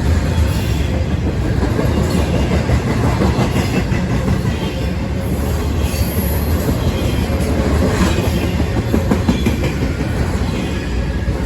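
Intermodal freight train's cars rolling past, a steady rumble of steel wheels on rail with repeated clicking over the rail joints.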